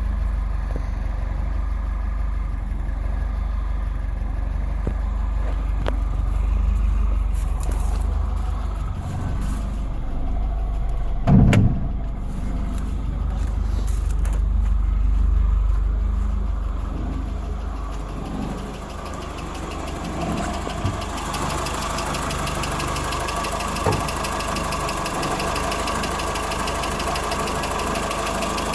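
Mk4 Ford Escort 1.3 engine idling steadily, with one brief loud knock about halfway through; from about two-thirds of the way in, a steady hiss runs over the idle.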